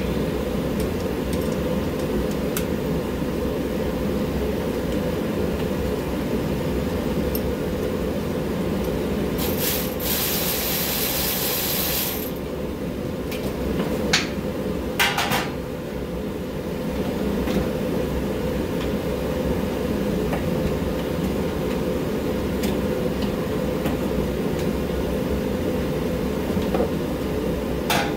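Steady low rumbling mechanical noise, with a high hiss of about two seconds roughly ten seconds in and a few sharp clicks and knocks a few seconds later.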